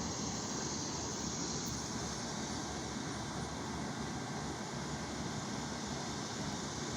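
Outdoor air conditioning unit running with a steady, even noise.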